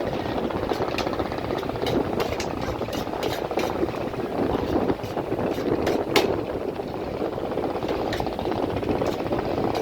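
Engine of a river passenger launch running steadily underway, with irregular sharp clicks and knocks over it, the loudest about six seconds in.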